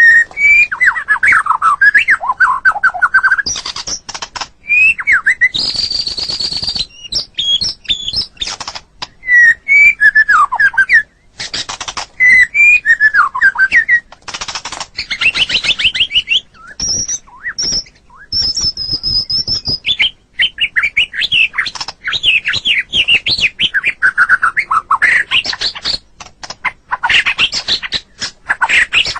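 White-rumped shama (murai batu) singing a long, varied song. Sliding whistles, fast trills and harsh rattling phrases follow one another, broken by short pauses.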